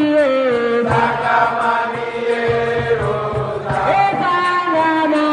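Music: voices singing long held notes that slide between pitches, over a low pulsing accompaniment with light regular percussion ticks.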